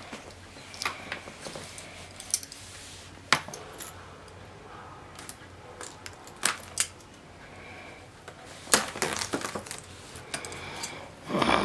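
Hard plastic laptop case and its packaging being handled: scattered light clicks and taps, with a quick run of them near the end.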